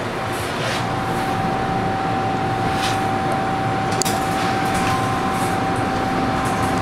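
MTR M-Train running on the Tsuen Wan Line, heard from inside the car: a steady rumble of the moving train, with a steady high whine setting in about a second in and holding.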